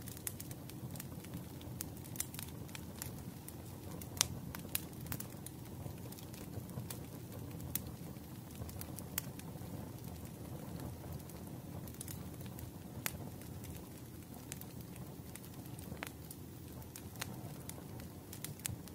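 Fireplace crackling: a steady low hiss of burning wood with irregular sharp pops, one louder pop about four seconds in.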